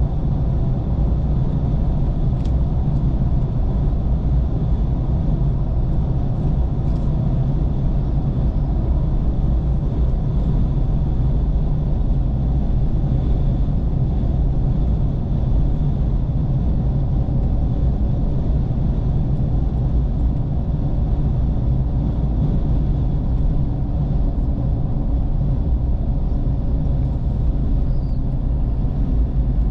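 Steady low rumble of a road vehicle travelling, its engine and road noise holding an even level throughout.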